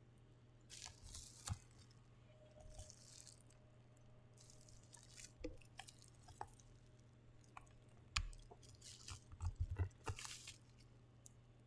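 Faint rustling and crinkling of packaging being handled, with scattered light clicks and a few soft thumps in the last few seconds, over a faint steady low hum.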